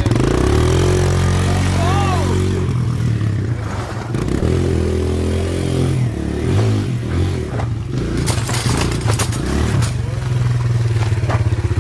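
Dirt bike engine running loud and close, its note shifting up and down as the throttle is worked, with brief dips before it settles into a steady drone in the second half.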